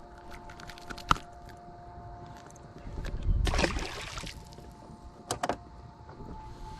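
Small electric motor, likely a boat's trolling motor, whining steadily, with scattered sharp clicks and knocks. A loud rushing burst lasts about a second, starting about three seconds in.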